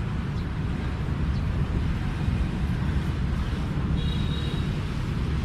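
Steady low outdoor rumble with no distinct events, with a faint high tone briefly about four seconds in.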